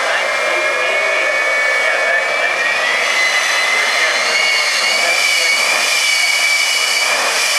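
Jet turbine engine of a jet-powered semi truck running steadily, a loud rushing noise with a high whine that creeps slightly up in pitch.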